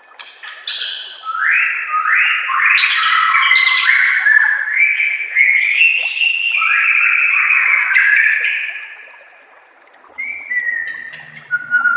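White-rumped shama (murai batu) singing a long, dense run of quick rising notes, broken by a short pause about nine seconds in before the song picks up again.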